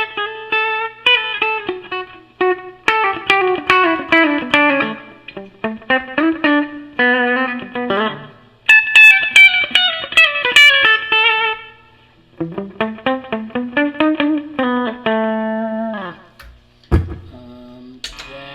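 1972 Gibson Les Paul Custom electric guitar on its bridge humbucker, played clean through a Fender Blackface amp emulation with compression and slap reverb: twangy picked phrases with short pauses between them. A low thump near the end.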